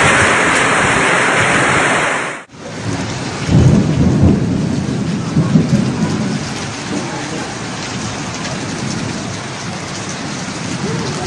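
Heavy rain in strong wind, a loud steady rush that cuts off about two and a half seconds in. It gives way to quieter steady rain, with low rumbling for a few seconds after the change.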